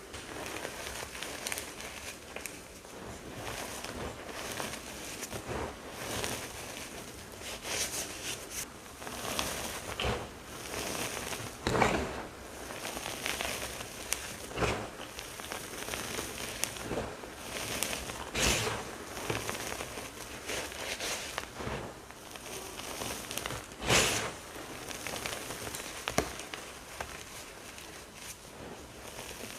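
Teal pasted (reformed) chalk blocks and chunks crunching and crumbling as they are crushed: a steady crackle of small cracks, with a few louder crunches about 12, 18 and 24 seconds in.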